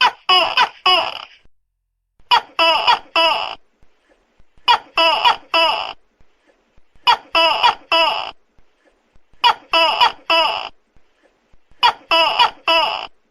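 Tokay gecko calling: loud, short calls in bursts of three or four. The bursts repeat evenly about every two and a half seconds, six times.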